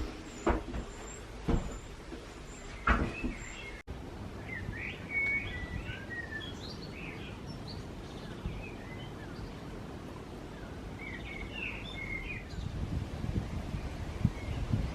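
A few sharp knocks, then after a sudden cut, small birds chirping and twittering in two spells over a steady low outdoor rumble that swells near the end.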